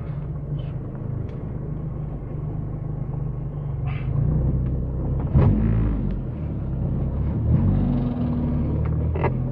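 1997 Nissan Altima's 2.4-litre four-cylinder engine running, heard from inside the cabin as the car sets off on a drive. There is a thump about five and a half seconds in, and the engine note shifts in pitch a few times afterwards as the car gets under way.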